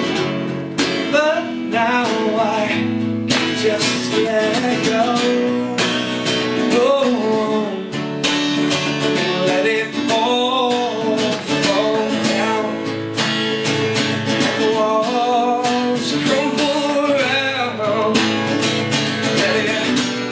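Acoustic guitar strumming chords, with a man singing a wavering melody over it.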